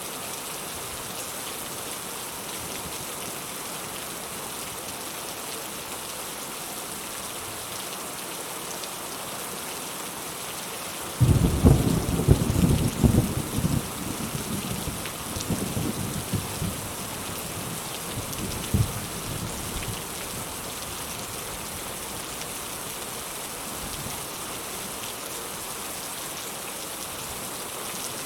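Steady rain hissing, with a clap of thunder that breaks in suddenly about a third of the way through, crackles and rumbles for several seconds, then dies away, leaving the rain alone.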